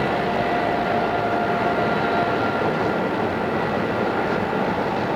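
Odakyu 2600 series electric train running, heard from inside the car: a steady rumble and rush of wheels on rail with faint steady whining tones. One tone fades out about two seconds in as another, higher one sets in.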